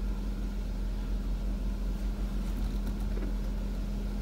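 Jeep Wrangler JK engine idling steadily with the vehicle stopped, a constant low hum.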